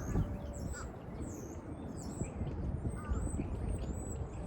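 Small songbirds chirping and whistling, many short high notes overlapping, over a steady low rumble.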